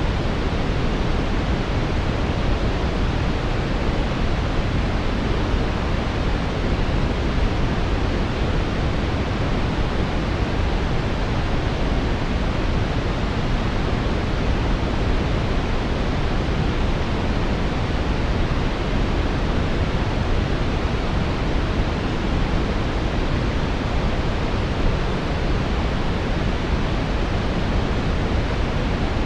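Synthetic brown noise: a steady, even hiss weighted toward the deep low end, with no events or changes.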